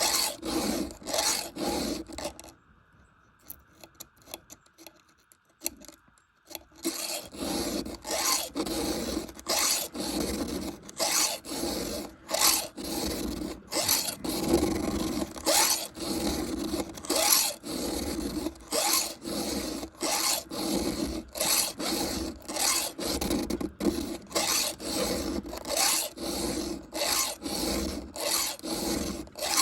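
Round chainsaw file rasping across a saw chain's cutter teeth in steady repeated strokes, with a pause of a few seconds near the start. The teeth are dull and overhang the file, so each is being filed back hard to reshape it.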